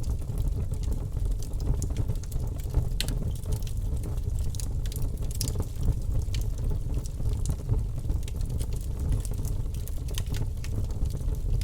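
Wood fire burning in an open fireplace, crackling and popping with many small irregular snaps over a steady low rush of the flames.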